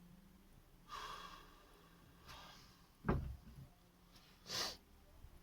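Brief handling noises during work on a car: a short rustle about a second in, one sharp knock a little past the middle, and a short breathy hiss near the end.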